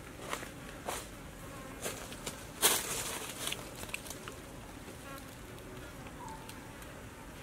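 A person chewing roasted chicken close to the microphone: a run of sharp mouth smacks and clicks through the first half, the loudest about two and a half seconds in, then quieter chewing.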